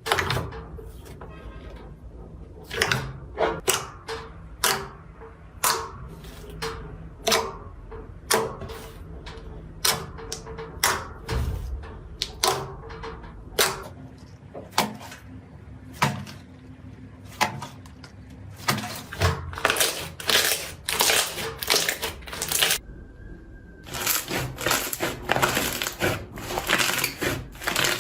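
Slime being squished and pressed by hand, making a string of sharp clicking pops, with the clicks crowding into dense crackling near the end.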